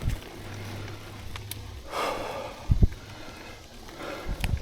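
A rider breathing hard, with two short low thumps about three and four and a half seconds in.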